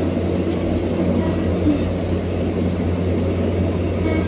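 Steady low rumble of a passing PNR commuter train, heard through closed window glass over a constant low hum.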